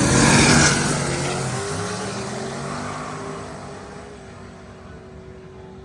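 Drag racing car engines at full throttle. The noise fades steadily over about four seconds as the cars pull away down the track, and a quieter steady engine hum is left.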